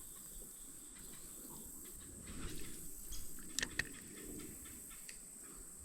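Faint outdoor ambience: a steady high-pitched drone with a few light clicks and knocks about two to four seconds in.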